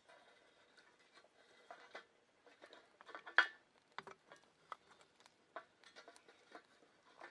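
Scattered light clicks and taps at an irregular pace, with one sharper, louder clack about three and a half seconds in.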